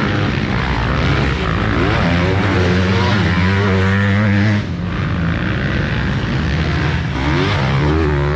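Motocross motorcycles racing, engines revving up and down with throttle changes. The loudest engine note cuts off suddenly about halfway through, and other bikes carry on.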